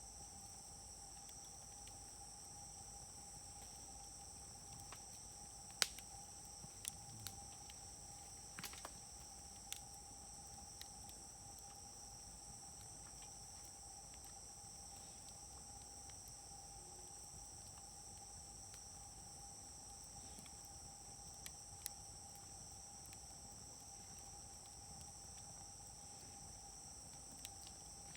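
Wood fire burning in a Uniflame fire grill, popping with scattered sharp crackles: the loudest comes about six seconds in, with a cluster over the next few seconds. Underneath runs a steady high-pitched chorus of night insects.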